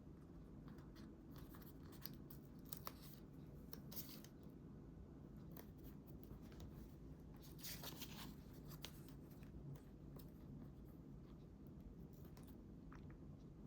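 Faint sounds of paper being handled and worked for a scrapbook: a few short scratchy strokes and small clicks, the clearest about three to four seconds in and again around eight seconds in, over quiet room tone.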